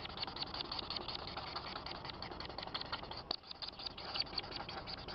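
A large flock of birds chattering: a dense, irregular stream of quick high clicks and chirps over a low background rumble.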